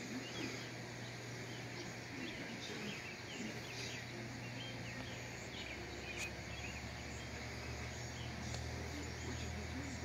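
Small birds chirping and twittering in short, scattered calls over a steady low hum; a deeper hum joins about halfway through.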